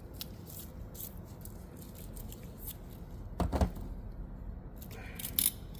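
Steel gears and parts of a Honda Prelude 5-speed manual transmission being handled: light clicks and small metallic taps, with one heavier clunk about three and a half seconds in.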